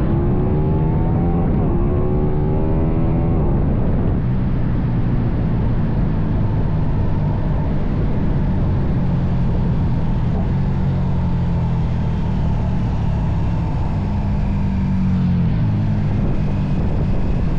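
KTM Super Duke's V-twin engine running, its pitch rising and falling over the first few seconds, then running steadily.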